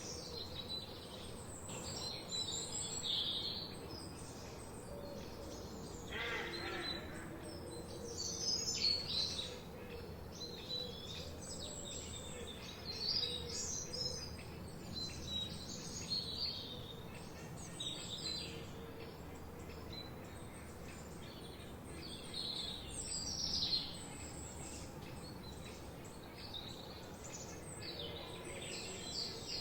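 Several songbirds chirping and singing over a steady background hiss, with quick high chirps and trills coming every second or two.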